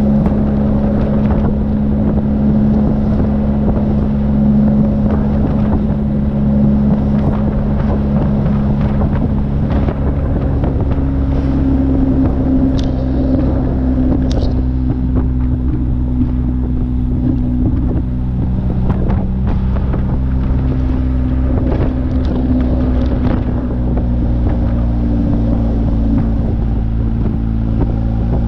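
BMW R1250 GS Adventure's boxer-twin engine running at a steady cruise, its note stepping up a little about eleven seconds in and shifting again later as speed changes, with wind buffeting the helmet-mounted microphone.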